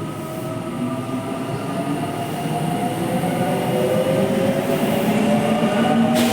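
Tobu Railway electric train running on the line, its traction-motor whine climbing steadily in pitch as the train accelerates, over wheel and track rumble that grows louder.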